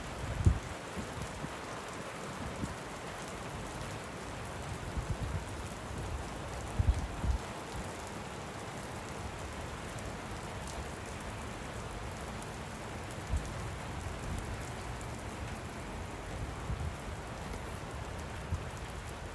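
Light rain falling, a steady soft hiss, with a few irregular low dull thumps, the loudest about half a second in and around seven seconds in.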